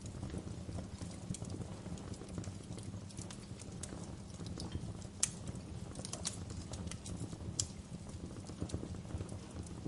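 Wood fire crackling in a fireplace: a steady low rumble of flames with irregular small snaps, and two louder pops about five and seven and a half seconds in.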